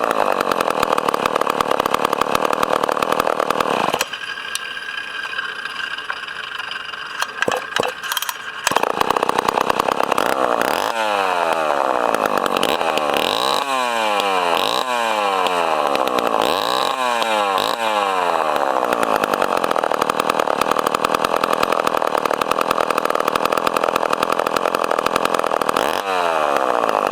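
Poulan 306A two-stroke chainsaw engine running at high revs, dropping to idle about four seconds in. It is then revved up and down several times, held at high revs, and dropped and revved again near the end.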